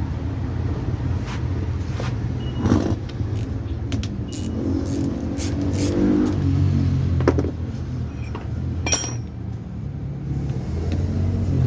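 A steady low rumble of a running motor, with scattered metallic clicks and knocks of parts being handled, the sharpest near the end.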